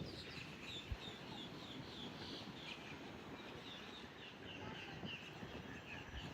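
Many birds calling at once: short high chirps repeating several times a second, over a low rumble.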